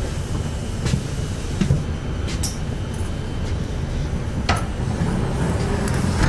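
A freight train of open gondola wagons rolling past, heard through a window: a steady low rumble of wheels on rail, broken by sharp metallic knocks, the strongest about four and a half seconds in.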